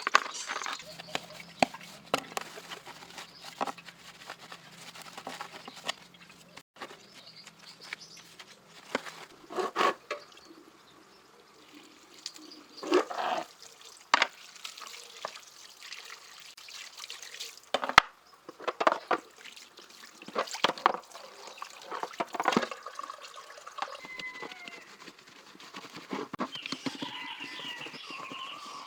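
Water splashing and trickling, broken by scattered knocks and clinks.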